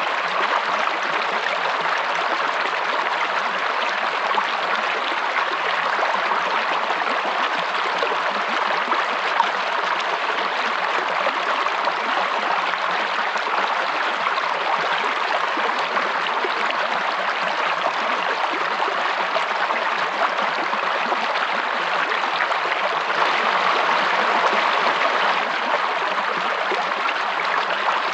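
Flowing water of a stream or small waterfall, a steady, even rush with no breaks.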